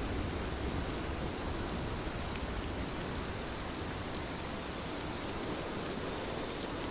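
Heavy rain falling steadily, a dense hiss with scattered individual drop ticks.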